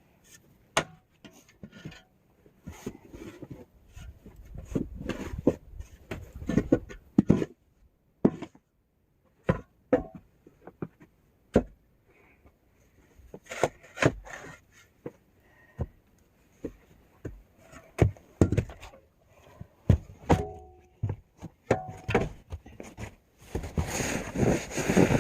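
A snow shovel scraping and pushing heavy, wet snow, with irregular sharp scrapes and knocks of the blade and swishes of snow being moved.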